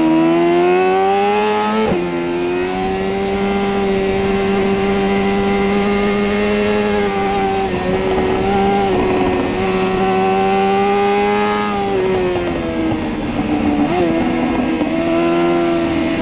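BMW S1000RR HP4's inline-four engine at full load, heard from onboard. Revs climb and then drop sharply about two seconds in as it shifts up. They hold high with a couple of brief dips, fall away about twelve seconds in, give a quick blip near fourteen seconds and climb again near the end.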